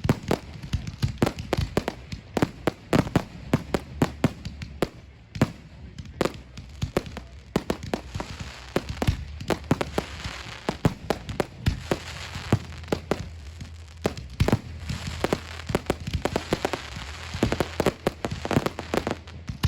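Aerial fireworks display: many sharp bangs in quick succession, with stretches of dense crackling from crackle shells around the middle and again near the end.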